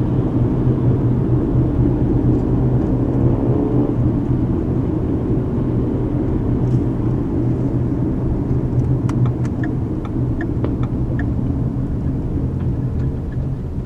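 Car cabin road noise while driving: a steady low rumble of tyres and engine, easing off slightly near the end. A few faint light clicks come through about two-thirds of the way in.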